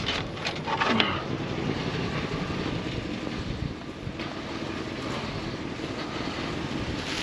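A few clattering knocks in the first second, then a steady low vehicle rumble.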